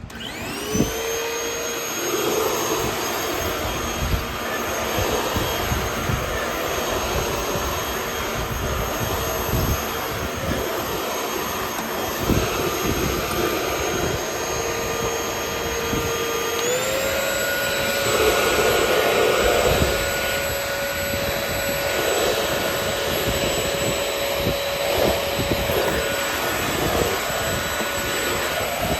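Euro-Pro X stick vacuum motor spinning up from a stop and running with a steady whine, then stepping up to a higher pitch about two-thirds of the way through as it is switched to its higher speed.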